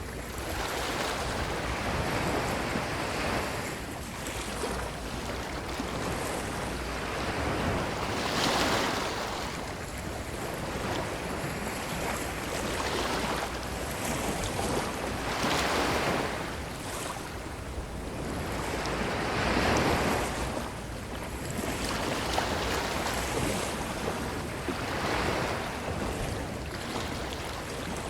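Ocean waves breaking and washing up the shore, the surf swelling and easing every few seconds over a steady low rumble.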